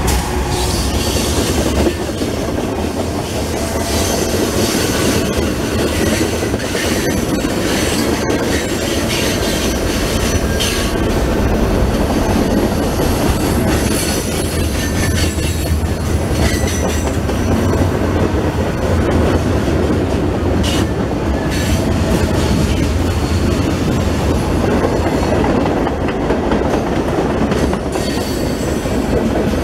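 A freight train's cars rolling past with a steady heavy rumble of steel wheels on rail. Repeated clicks come from the wheels crossing rail joints, and brief high-pitched wheel squeals come and go throughout.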